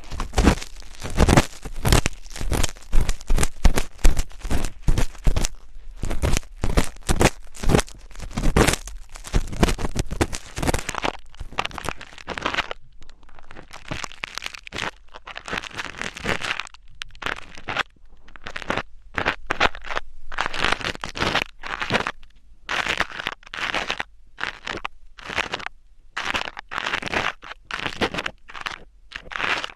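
Close-miked ASMR scratching: rapid crackling, scraping strokes, packed densely at first and then coming in shorter clusters with brief pauses.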